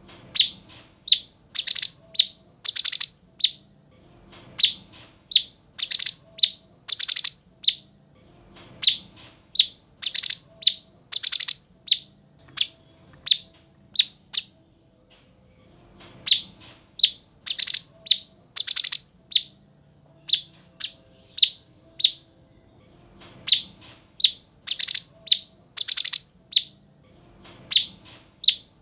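Cucak cungkok singing energetically: repeated phrases of short, sharp whistled notes mixed with loud, harsh rasping notes, coming in bursts every couple of seconds with short pauses between.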